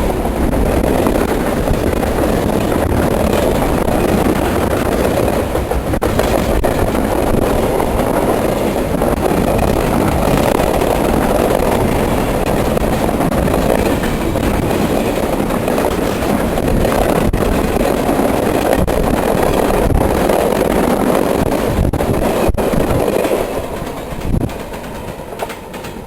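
Mixed freight train passing at track speed: a steady rush of rolling freight cars with the wheels clicking over rail joints, dying away over the last few seconds as the end of the train goes by.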